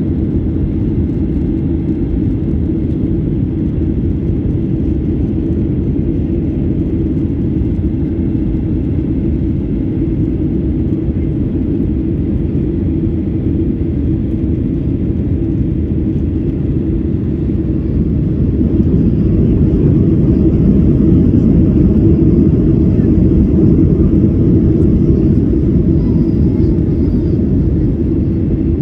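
Boeing 737-800 jet noise, a steady low rumble with little above the low end. It grows louder about two-thirds of the way through and eases back near the end.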